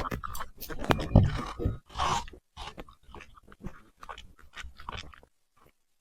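A puppy chewing and crunching food with irregular bites, loudest and densest in the first two seconds, then sparser, stopping abruptly about five seconds in.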